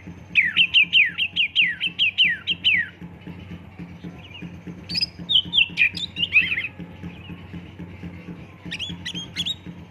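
Oriental magpie-robin (kacer) singing: a fast run of about a dozen sharply down-slurred whistled notes, about five a second, then a second shorter run partway through and a few more notes near the end, over a steady low hum.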